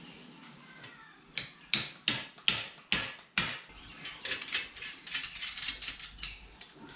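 Hand tools working on steel front-end parts: six sharp metal knocks about a third of a second apart, then a quicker clatter of clicking for about two and a half seconds.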